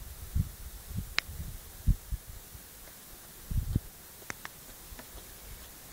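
Irregular low thumps and puffs close against the microphone, with a few sharp clicks.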